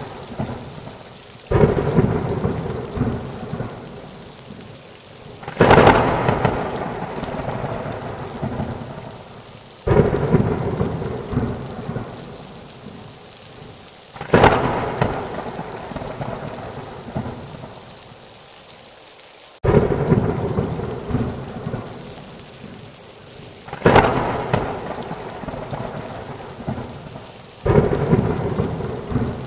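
Thunderstorm: seven claps of thunder, each starting suddenly and rolling away over a few seconds, about every four to five seconds, over steady rain.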